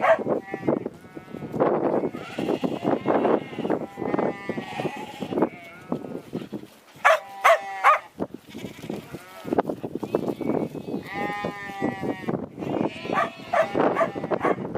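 A flock of sheep bleating, many wavering calls overlapping one another with hardly a pause.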